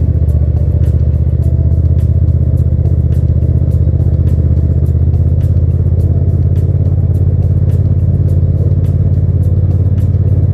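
A Hyosung GT650's V-twin engine running steadily at cruising speed, with music and a regular ticking beat over it.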